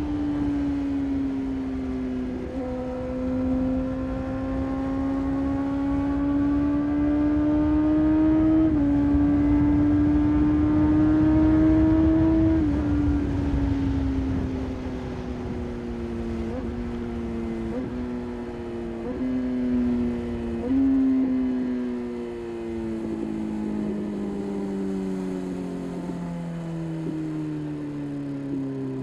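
Motorcycle engine running under way, its pitch climbing slowly with a step up about a third of the way in. In the second half the pitch sinks gradually, broken by several short upward jumps.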